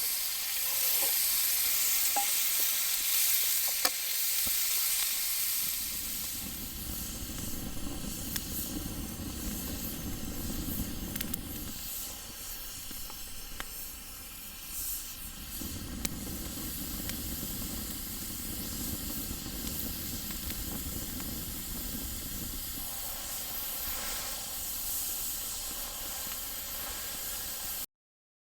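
Steady sizzling hiss with a few sharp crackles, from a small campfire or something cooking over it. A low rumble joins after about six seconds, and the sound cuts out briefly near the end.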